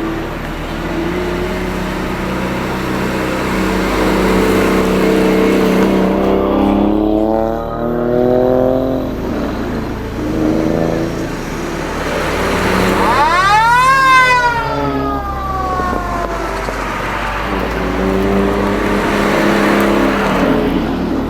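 Toyota JZ-series inline-six car engines revving: the revs climb and drop back several times, with the sharpest, highest rev about two-thirds of the way through before it falls away.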